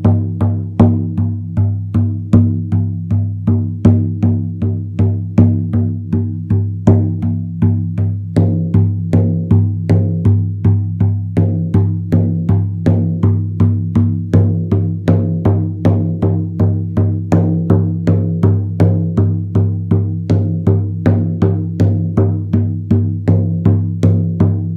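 Handmade goat-skin frame drum struck steadily with a stiff, thick leather beater, each stroke ringing with a deep low tone and overtones. The beat picks up pace about a third of the way through.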